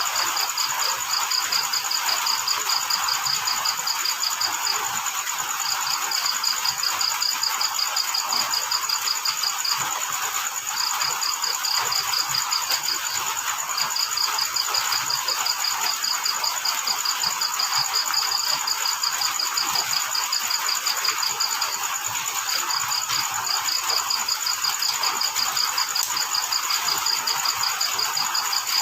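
Crickets chirping in rapid pulsed trills that come in bouts of a few seconds with short pauses between. Behind them runs a continuous high-pitched drone and a steady hiss.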